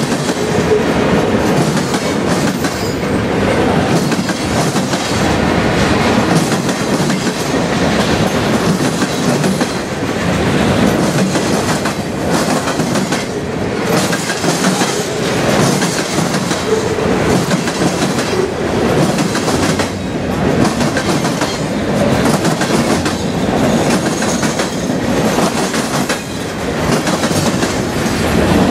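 CSX mixed freight train passing close by: autoracks, boxcars and gondolas rolling past in a steady, loud rumble, with repeated clicks of steel wheels over the track.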